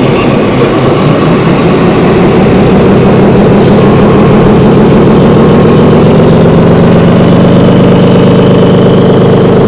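Diesel truck engine sound from a 1/14-scale RC truck's sound module, running steadily at a low, even pitch.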